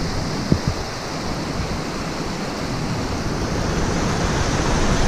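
Steady rush of river water spilling over rocks in a small rapid.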